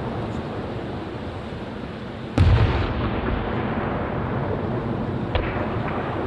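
Aerial fireworks shells bursting: one loud, deep boom about two seconds in and a smaller sharp bang near the end, over a steady wash of noise.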